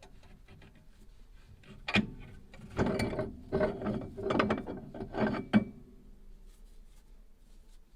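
Mechanical workshop noise from hand work on a metal tool: a sharp click about two seconds in, then several seconds of irregular clicking and rasping.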